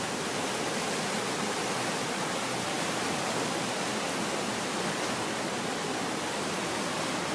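Boulder Creek in flood, about six feet above normal and running extremely fast: a steady, unbroken rush of fast water.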